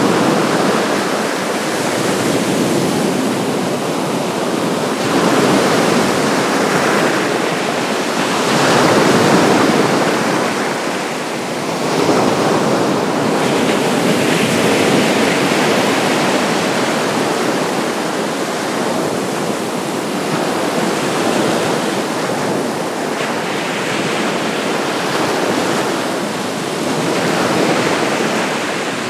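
Baltic Sea waves washing onto the shore in a steady rush that swells and eases every few seconds.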